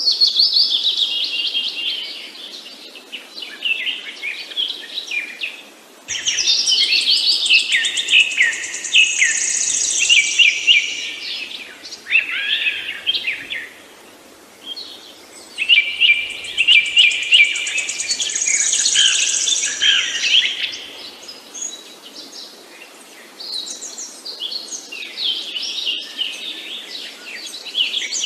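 Birds chirping and singing, rapid high chirps and trills coming in loud spells with quieter stretches between.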